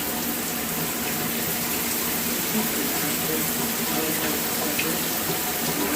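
Water-powered LED rain shower head running, with water spraying down in a steady hiss.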